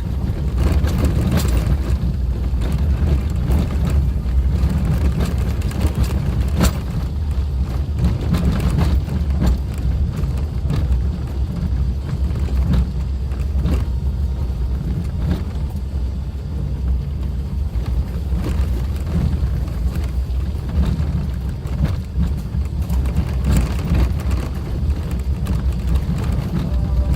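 Suzuki Jimny driving on an unpaved forest road: steady engine and rough-road running noise with scattered knocks and rattles from bumps.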